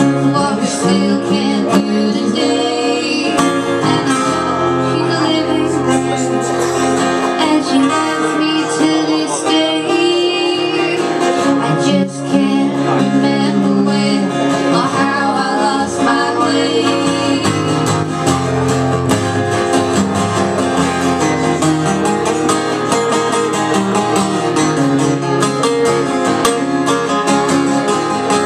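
Live old-time string band music: acoustic guitar picking an old-time tune, playing steadily with a brief dip about twelve seconds in.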